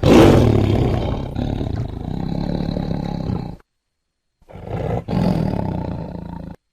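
Tiger roaring twice, a long roar of about four seconds and then a shorter one of about two seconds after a brief silence.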